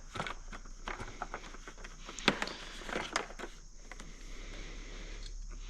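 Handling noises: scattered light clicks and knocks, with a few sharper taps about two to three seconds in.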